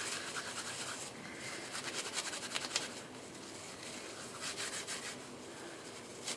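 Dry grapevine inner bark being rubbed and pulled apart between the hands into fine fibers: a rapid, scratchy rustling that comes and goes in spells.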